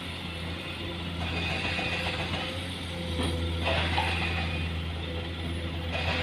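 Heavy construction machinery's diesel engine running steadily, with metallic rattling and clanking from its moving parts coming and going over the hum.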